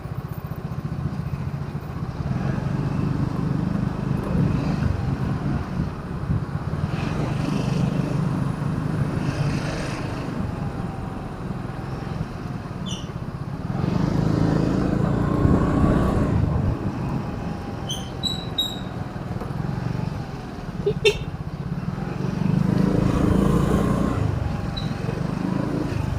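Road traffic heard from a moving vehicle: engines running steadily, with two swells as vehicles pass close by. There is one sharp click about three-quarters of the way through.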